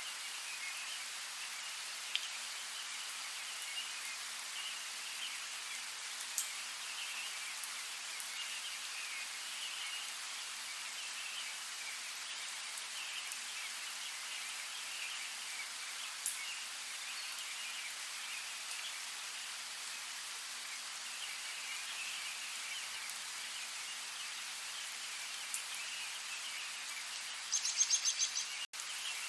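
Steady rain falling, a even hiss with an occasional sharper drop tick, and faint chirping of small animals in the background. Near the end comes a brief louder trilling call, then the sound cuts out for an instant.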